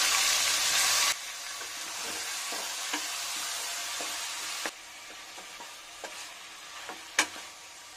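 Raw chicken pieces sizzling in hot oil and masala in a pressure cooker as they are stirred, with a few short knocks of the spoon against the pot. The sizzle is loudest at first, drops off sharply about a second in and falls again about halfway through.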